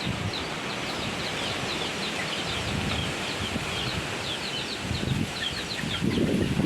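Strong wind blowing and gusting against the microphone, with birds chirping repeatedly over it. The low gusts grow stronger near the end.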